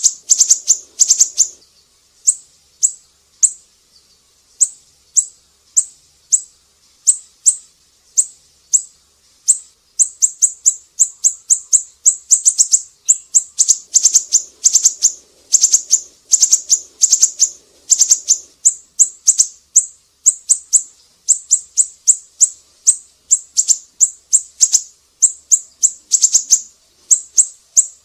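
A siri-siri bird singing energetically: a long string of short, sharp, high chips, some delivered in rapid runs of several a second and others spaced out.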